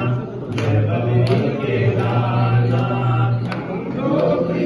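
A group of voices singing a devotional chant together, with a low note held for several seconds and a few sharp clicks.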